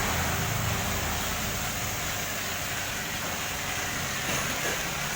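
A motor running steadily, its low hum fading slightly, under a steady hiss.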